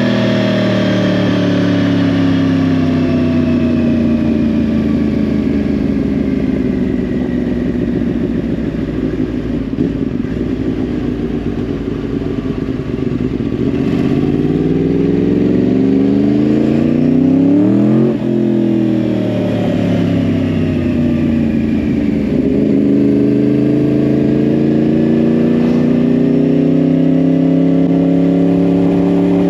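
2010 Yamaha R1's crossplane inline-four running through a Yoshimura exhaust under way: the revs drop for the first dozen seconds, then climb hard. A gear change about two-thirds of the way in briefly cuts the sound, after which the revs fall and then build again as the bike pulls.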